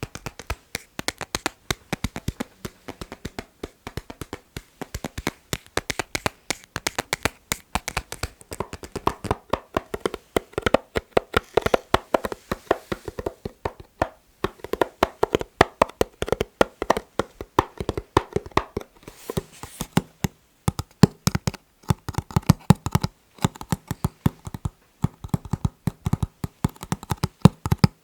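Rapid, rhythmic tapping on a series of different items, several taps a second. The tone of the taps changes as the item changes, ringing for a stretch in the middle and turning duller and lower near the end.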